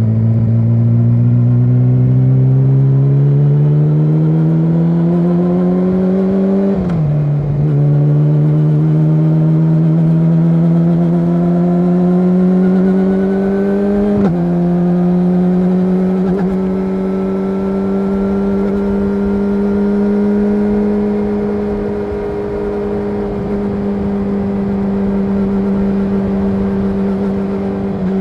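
Yamaha YZF-R6's inline-four engine through an SC-Project SC1-R exhaust, rising steadily in pitch under acceleration, with a sharp drop at an upshift about seven seconds in and another about fourteen seconds in. It then holds a steady pitch at a constant speed.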